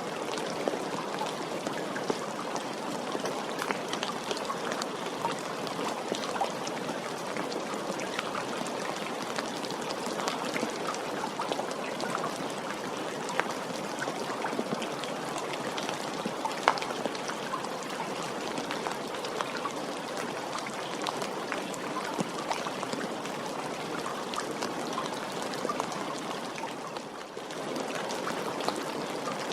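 Steady rain falling, with many small separate drop hits sprinkled through the even rush of water; the sound dips briefly near the end, then comes back.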